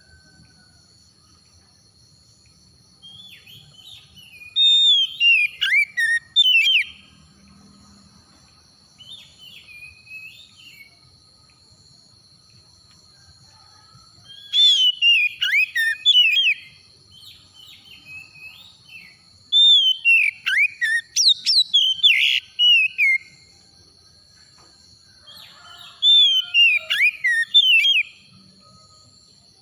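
Oriental magpie-robin (kacer) singing: rich, fast-changing whistled phrases in four loud bursts of a few seconds each, with quieter pauses between them.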